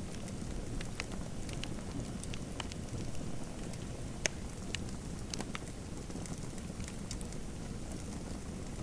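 Wood fire crackling: irregular sharp pops and snaps over a steady low rumble of flame, with one louder pop about four seconds in.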